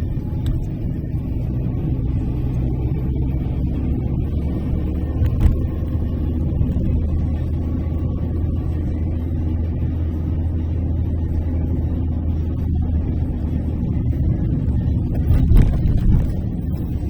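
Steady low rumble of engine and tyre noise inside a moving car's cabin, with a short thump about five seconds in and another cluster of knocks near the end.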